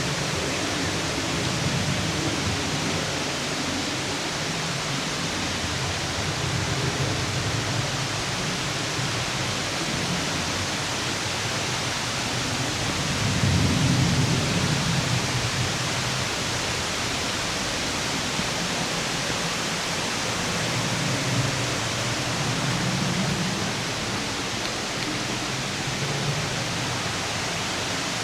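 Waterfall cascading: a steady rush of falling water, with a deeper rumble that swells louder about halfway through.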